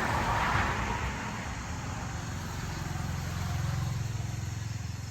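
A motor vehicle engine running with a low, pulsing rumble that grows louder about three to four seconds in.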